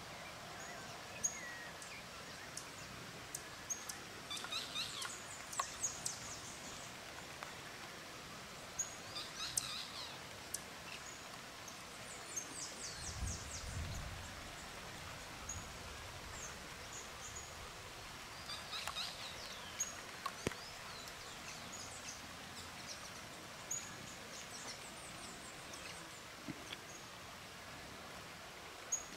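Forest ambience with several birds calling on and off in short, high chirps and trills over a faint steady background. There is a brief low rumble about halfway through.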